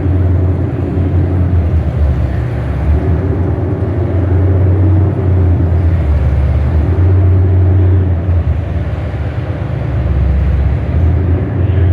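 A vehicle engine running with a steady low drone that swells and eases every few seconds.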